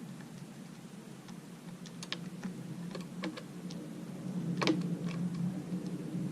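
A run of light, irregular clicks and taps, the loudest about two-thirds of the way in, over a steady low hum.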